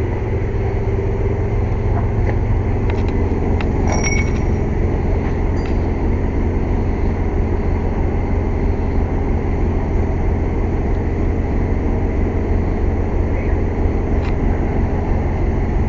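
Air compressor running steadily with a loud, even drone. A few light metallic clinks with a brief ring come about four seconds in.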